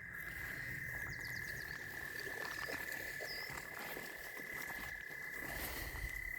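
A steady high trill from frogs, held on one pitch without a break, with a few faint bird chirps over it about a second in and again near the middle.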